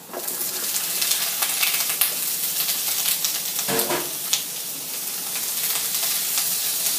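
Sliced courgette (baby marrow) dropped into hot coconut oil in a frying pan, setting off a loud sizzle all at once, then a spatula stirring and scraping the slices with many small clicks over the steady frying hiss.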